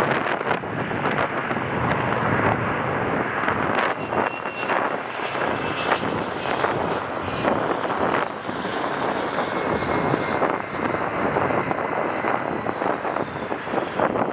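Jet engines of an EVA Air Cargo freighter at takeoff power: a steady, loud rushing roar with a faint high engine whine. Gusty wind buffets the microphone throughout.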